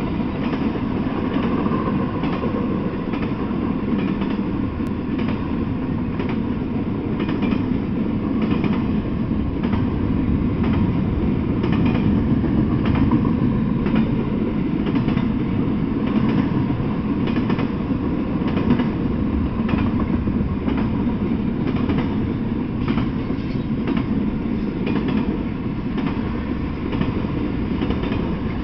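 Intermodal freight train passing at speed, its cars of truck trailers and stacked containers rolling by with a steady rumble and wheels clacking over the rail joints again and again.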